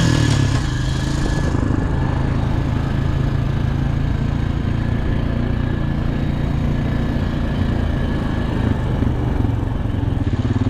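ATV (quad) engine running steadily.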